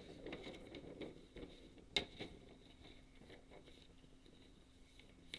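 Faint rustling and light taps of a paper instruction booklet being handled, with one sharper tap about two seconds in.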